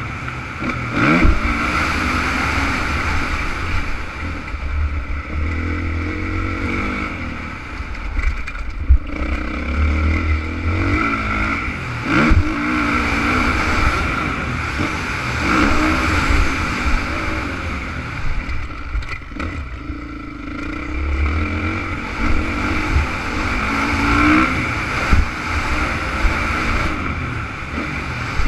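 Honda CRF450 four-stroke single-cylinder motocross bike engine riding hard, its pitch rising and falling again and again as the throttle opens and closes, with a few sharp knocks along the way.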